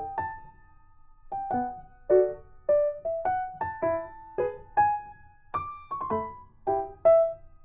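Background music: a light keyboard melody of single struck notes, about two a second, each fading quickly, with a short pause about a second in.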